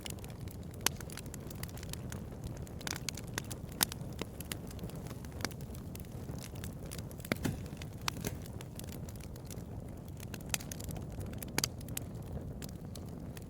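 Bonfire crackling: irregular sharp pops and snaps, a few of them louder, over a steady low rush of the burning fire.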